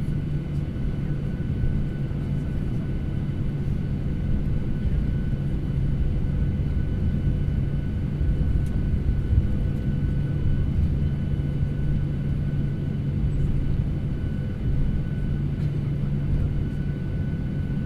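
Airliner cabin noise: a steady drone of engines and airflow, with a constant low hum, a few faint steady whine tones above it and occasional faint ticks.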